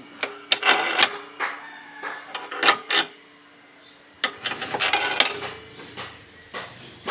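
Clicks, knocks and metallic rattles from workshop tools and wood being handled. About four seconds in, a low motor hum starts under the clatter.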